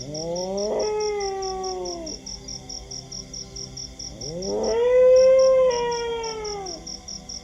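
A dog howling twice: two long howls that rise and then fall in pitch, the second louder and held longer. Steady, rapid insect chirping runs underneath.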